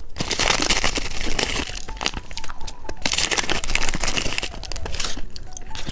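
Popping candy crackling and snapping in the mouth along with crunching of the candy, a dense run of fine crackles that swells and fades in waves.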